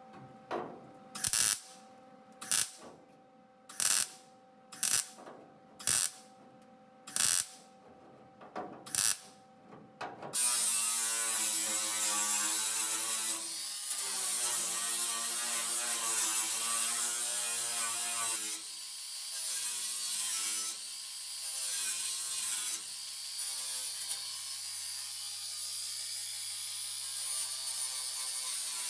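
About seven short bursts of welding on sheet-steel body panels, about a second and a half apart, as in tack welding a patch panel. About ten seconds in, a grinder starts and runs continuously on the metal, its pitch wavering with the load.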